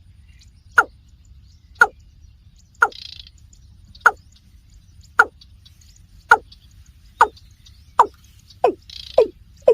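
Calls of a rail: short, loud notes that slide downward in pitch, repeated about once a second and quickening near the end.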